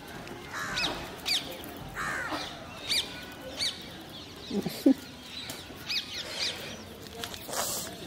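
Birds calling: short chirps that rise and fall, recurring every half-second to a second with gaps. Just before five seconds in there is a brief low falling call and a sharp click.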